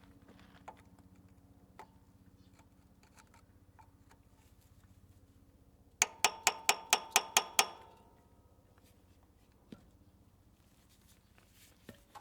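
A quick run of about nine sharp, ringing metallic taps, roughly six a second, lasting about a second and a half, with scattered faint clicks of handling before and after.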